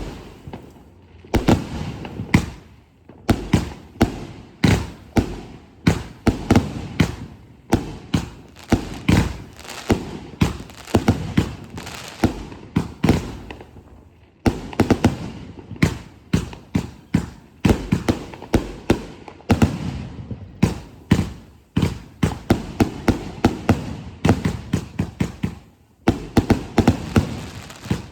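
A 66-shot, 2-inch firework cake firing shot after shot: sharp bangs of launches and breaks several a second, with a few brief pauses between volleys.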